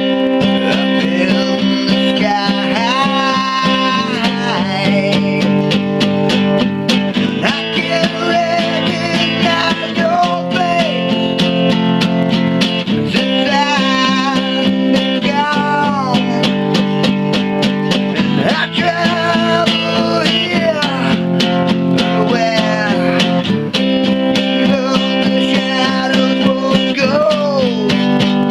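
Acoustic guitar strummed in a steady rhythm, an instrumental stretch of a song, with a gliding melody line over the chords.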